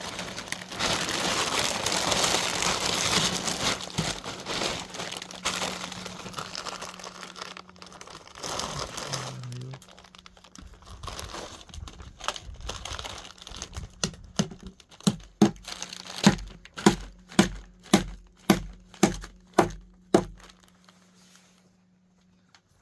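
Plastic sheeting crinkling and rustling as it is handled, loudest over the first several seconds. Later come about a dozen evenly spaced hammer blows, roughly two a second.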